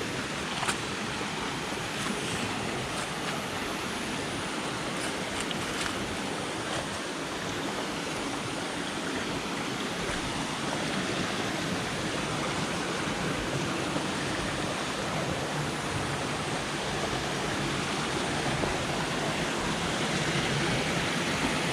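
Rushing river water: a steady, even roar of a jungle stream running over bedrock, growing slightly louder over the stretch, with a few faint clicks near the start.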